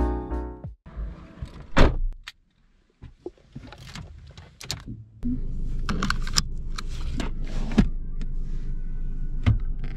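A Fiat car's engine is started about five seconds in and then idles with a steady low hum, heard from inside the cabin. Scattered clicks and knocks from the driver handling the ignition key and the centre-console controls.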